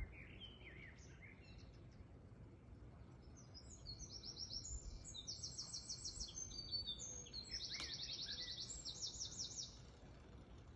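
Songbirds singing: a few faint chirps at first, then, from about a third of the way in, fast high-pitched trills of rapidly repeated notes in several overlapping phrases, which stop shortly before the end.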